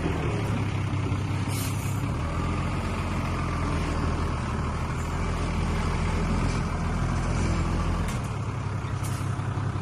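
Diesel engine of heavy earthmoving machinery running steadily under work, with a few short metallic clanks. The engine note changes about eight seconds in.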